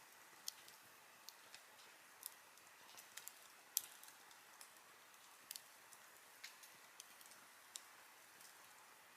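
Wood campfire burning quietly, giving off sparse, irregular sharp crackles and pops over a faint steady hiss, with one louder pop a little under four seconds in.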